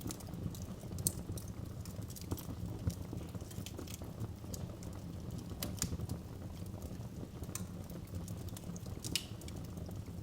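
Wood fire burning in a fireplace with a steady low rumble, crackling with irregular sharp pops and snaps.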